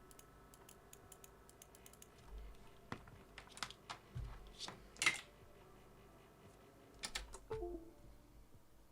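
Irregular light clicks and taps of small objects being handled, faint at first, with a few louder clicks in the middle and again near the end.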